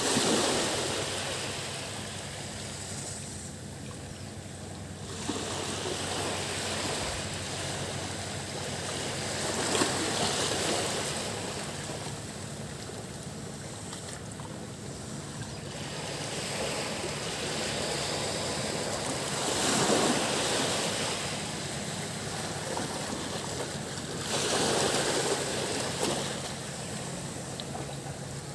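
Sea waves breaking and washing up a beach, swelling and easing about every five seconds. Behind them runs a steady high drone of cicadas.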